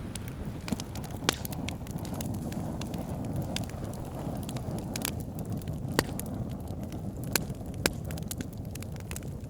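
Wood fire crackling in a fireplace: scattered sharp pops, a handful of them louder, over a steady low rumble.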